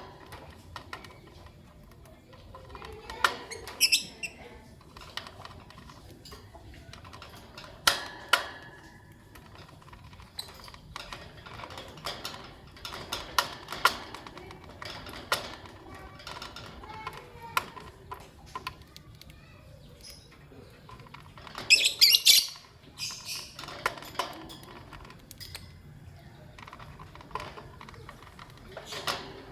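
Lovebirds chirping in short, scattered calls, mixed with small clicks and taps. A loud, shrill burst of calls comes about three quarters of the way through.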